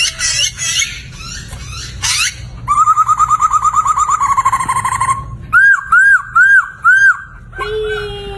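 Poksay (laughingthrush) singing a varied song: quick chattering notes, then a fast trill, four arched whistled notes, and near the end a long, low note sliding downward.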